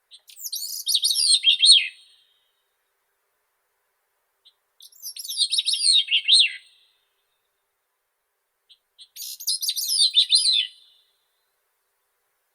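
Grey-cheeked thrush singing: three high, rapid phrases about four seconds apart, each lasting about two seconds and sliding downward in pitch at the end, each led in by a short soft note.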